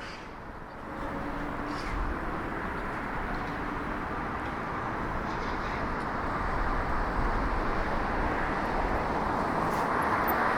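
Street traffic noise, the tyre and engine sound of a car, swelling about a second in and growing steadily louder.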